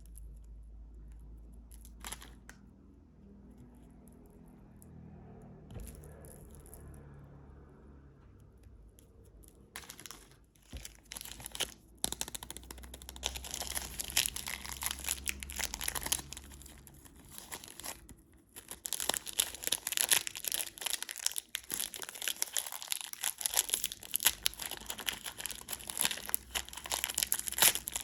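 Quiet handling with a few soft rustles, then from about ten seconds in a candy wrapper being torn open and crinkled, dense crackling that grows louder toward the end.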